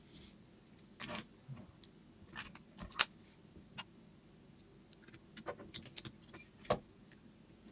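Scattered light clicks and metallic taps of small parts and hand tools being handled, the sharpest about three seconds in and another near the end.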